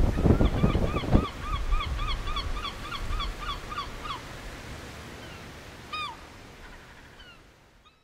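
A bird calling over and over, short arched notes at about four a second, which stop about four seconds in, followed by a single call later; wind buffets the microphone through the first second, and the sound fades away toward the end.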